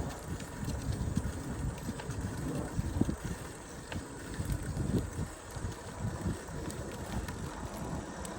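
Wind buffeting a bicycle-mounted or handheld microphone while riding, heard as an uneven low rumble that rises and falls in gusts.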